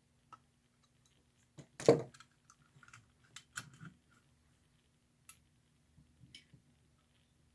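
Small clicks and taps of small metal toy-train parts being handled on a workbench, with one louder knock about two seconds in.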